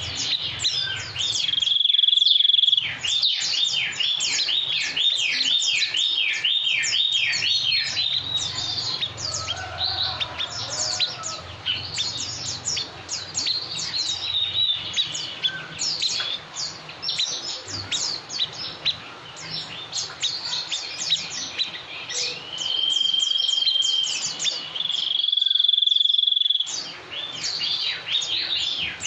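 Songbird singing: rapid runs of sharp, high, downward-slurred chirps, broken by a long steady high whistle about two seconds in and two more near the end.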